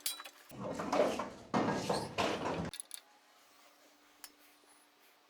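Metal parts and tools clattering and clinking for about two seconds, then stopping abruptly, followed by near silence with a few faint ticks.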